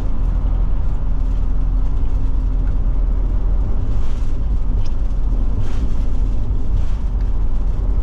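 Steady engine and road rumble inside the cab of a Forest River Forester Class C motorhome cruising on the highway, with a few brief swells of noise.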